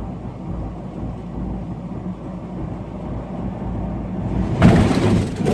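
Steady low rumble of a vehicle driving, then near the end a sudden loud crash of a collision that goes on clattering.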